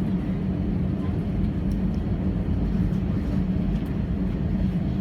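Steady low rumble and hum inside an Airbus A320 cabin from the running aircraft, with a few faint ticks.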